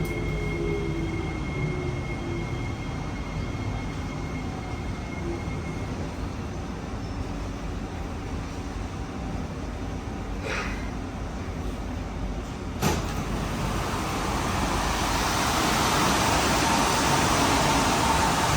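Interior running noise of a Kawasaki C151C metro train coming to a stop, its traction-motor tones falling near the start. About thirteen seconds in comes a sharp clunk, then a louder steady hiss with a faint held tone as the doors open at the station.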